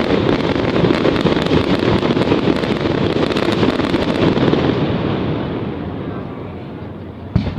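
Fireworks going off in a dense, continuous crackling barrage that dies away over the last couple of seconds, then a sharp bang near the end.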